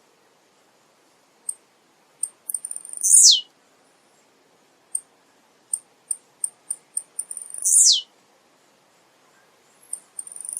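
Male blue-black grassquit (tiziu) singing: a run of short, very high ticks that quicken and lead into a loud buzzy note falling steeply in pitch. This happens twice, about three seconds in and about eight seconds in, and a third phrase begins right at the end.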